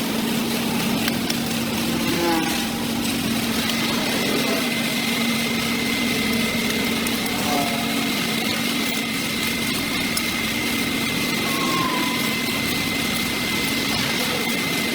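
Small engine of a brush cutter running steadily; about four seconds in a steady high whine sets in.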